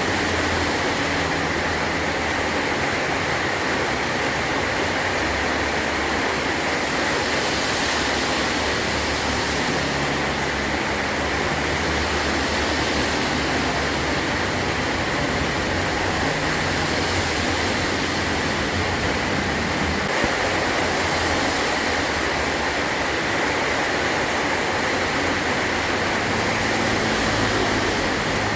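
Heavy rain drumming steadily on a metal tin roof, a dense even hiss with no break or single loud strike.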